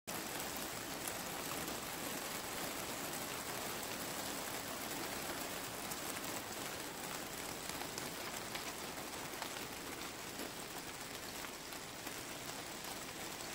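Light rain falling steadily: an even hiss with faint ticks of single drops scattered through it.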